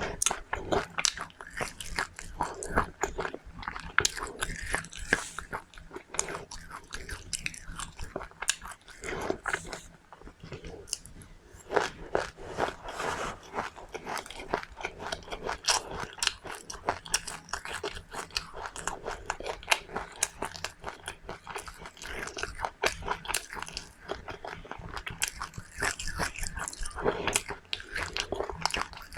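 A person chewing and crunching seeds, a dense, continuous run of small crackles and bites.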